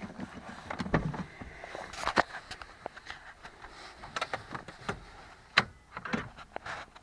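A few scattered clicks and knocks of someone handling a car's door, keys and interior; the engine is not running.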